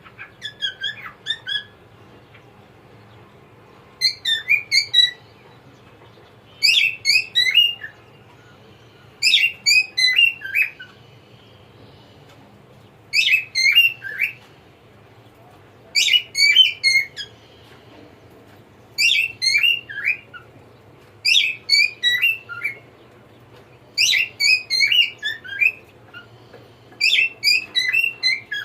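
Cockatiel singing, repeating a short phrase of quick chirpy whistled notes about every two and a half to three seconds, with brief pauses between phrases.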